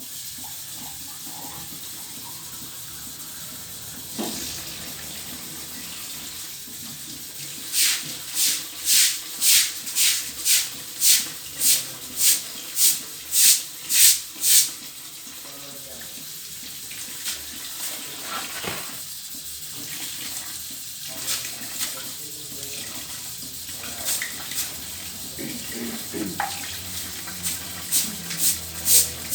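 A stiff scrubbing brush scrubbed hard over bleached ceramic tiles to lift the scale, in quick back-and-forth strokes about two a second: a run of a dozen or so strokes about a quarter of the way in and another starting near the end. Under it a steady rushing noise, like running water.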